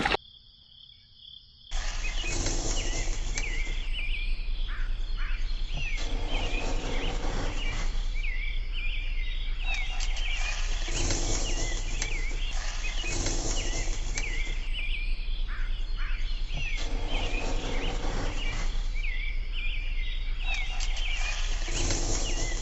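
Outdoor ambience: many quick, high chirps from birds or insects over a steady hiss and low hum. It cuts in sharply about two seconds in after near silence, then swells and fades every few seconds.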